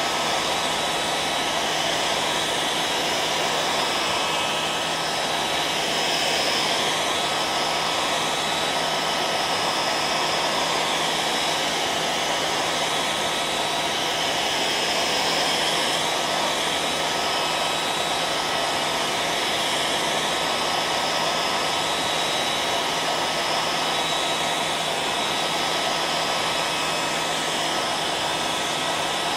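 Hair dryer running continuously, a steady blowing rush with a constant hum and whine.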